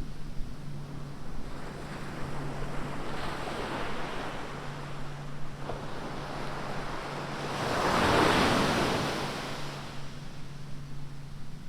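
Atlantic surf on a sandy beach: a steady wash of waves, with one wave breaking and rushing in loudest about eight seconds in. A low steady hum comes and goes underneath.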